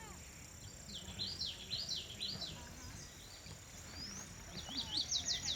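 A songbird singing two phrases of quick, high, down-slurred notes, the second near the end, over a faint steady high-pitched hum.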